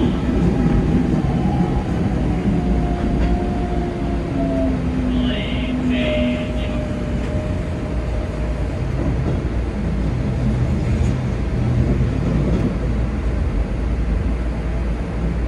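Keikyu 2100-series train running, heard from the driver's cab: a steady rumble of wheels on rails, with a motor whine that falls slowly in pitch over the first seven seconds as the train slows. A brief higher sound comes about five to six seconds in.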